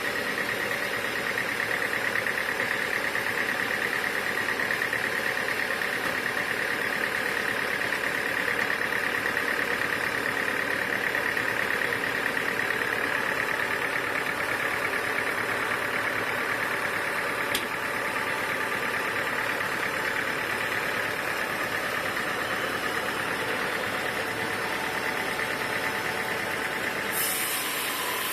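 Sawmill machinery running steadily: an even engine-like drone. A single sharp click about two-thirds of the way through, and the upper tone changes shortly before the end.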